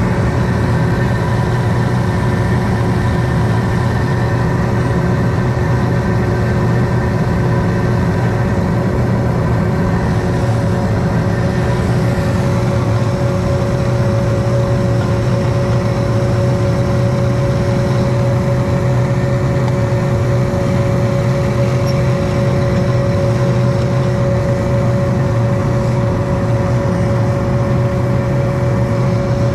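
Propane burner firing into a crucible furnace: a loud, steady roar with a few humming tones over it, one of which grows stronger about halfway through.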